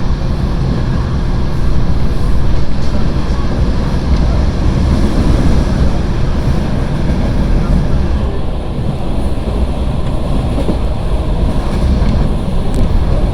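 Passenger train running at speed, heard from inside a carriage: a steady low rumble of wheels on rail with rushing noise.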